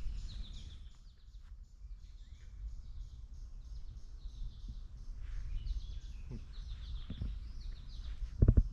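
Songbirds chirping in the trees, a continuous scatter of short high chirps over a low outdoor rumble. A brief thump near the end is the loudest sound.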